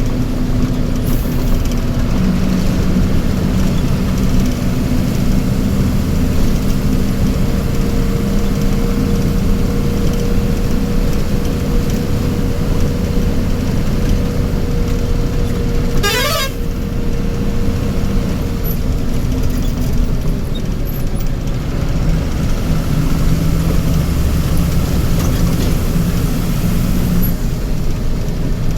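Vehicle engine running steadily in a traffic jam, with a horn tone held for much of the time and other horns honking. About sixteen seconds in there is a brief sharply rising glide.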